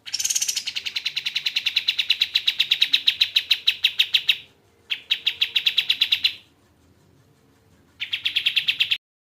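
Kapas tembak bird calling in rapid staccato trills of about ten sharp notes a second, high-pitched. It gives three bursts: one of about four seconds, a shorter one near the middle, and a brief one near the end.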